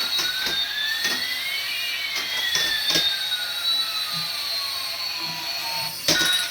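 Electronic whine of two tones, one sliding up in pitch while the other slides down, crossing midway, with faint clicks underneath. It ends in a sudden loud burst about six seconds in.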